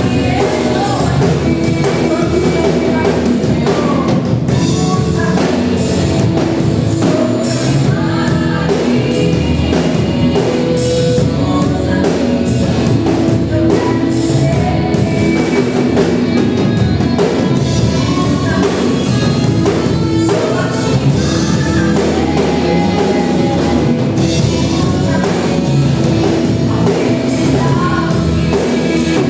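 Church worship band playing a praise song: voices singing over a drum kit and other instruments, steady and loud.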